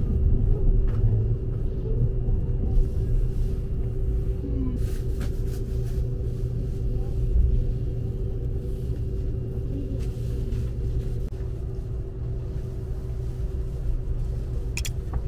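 Cabin running noise of a Seibu 001 series Laview electric limited express: a steady low rumble of wheels on track with a constant hum, easing slightly as the train slows to arrive at its terminal platform. A few light clicks come about five seconds in and near the end.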